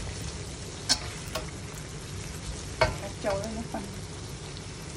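Beef slices frying in spiced oil in a metal wok, stirred with a metal slotted spatula: a steady sizzle with sharp clinks of the spatula against the pan about one, one and a half, and three seconds in, then a short squeaky scrape.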